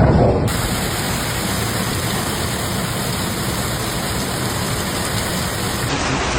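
Heavy rain pouring during a thunderstorm, a loud steady hiss, with the recording cutting to different footage about half a second in and again near the end.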